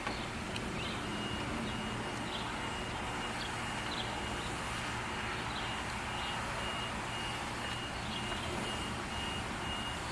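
A high electronic beep repeating evenly about twice a second, over the steady low hum of a vehicle.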